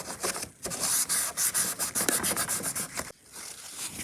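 Cloth wiping and rubbing briskly back and forth over the plastic body of an HO scale boxcar, a rapid run of rubbing strokes that eases off after about three seconds.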